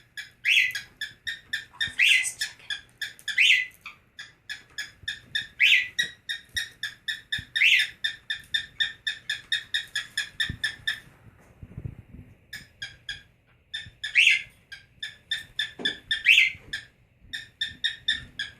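A pet bird giving a rapid, rhythmic run of short clucking chirps, about four a second, with a louder rising call every second or two: the bird's 'chicken' noise. The run breaks off about eleven seconds in and starts again shortly after.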